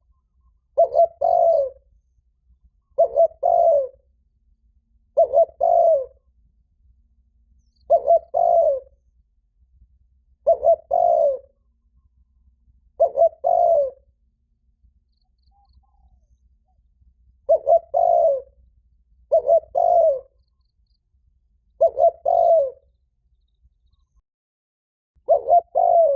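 Spotted dove giving its loud, ringing territorial coo: a short phrase of two or three quick notes, repeated about every two and a half seconds, with one longer pause about midway.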